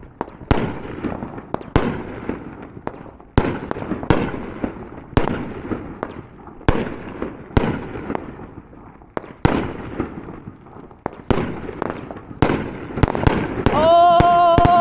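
Consumer firework cake firing shot after shot: sharp bangs about once a second, each with a short crackling tail. Near the end a man's drawn-out "ohh" rises over them.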